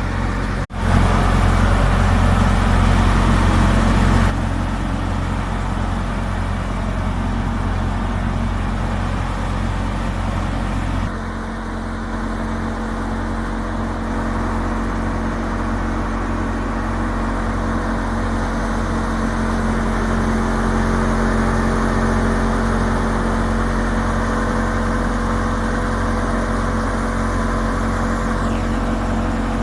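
A tractor engine and the millet thresher it drives run steadily, giving a continuous loud mechanical drone with a grinding rush of crop through the machine. The sound cuts out briefly just under a second in, then changes abruptly twice.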